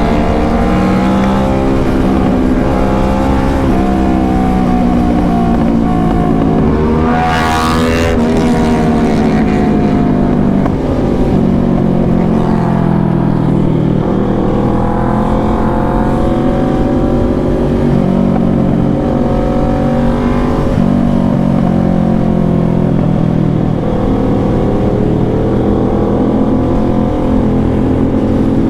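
Motorcycle engines running, their pitch drifting slowly up and down, with one short sharp rev about seven seconds in.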